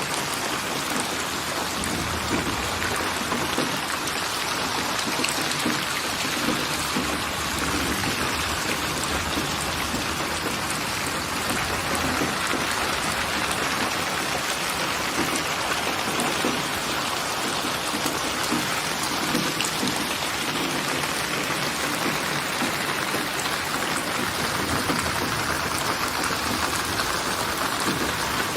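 Steady rain falling: an even, unbroken hiss of many small drop ticks.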